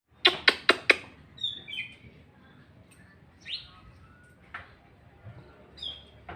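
Oriental magpie-robin (kacer) singing: four loud, sharp notes in quick succession in the first second, then scattered varied whistles and short chirps, some sliding down in pitch.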